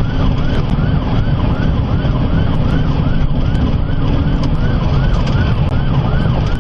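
Police car siren in its fast yelp pattern, the pitch sweeping up and down about three times a second, over loud low road and engine rumble from a car in a high-speed pursuit.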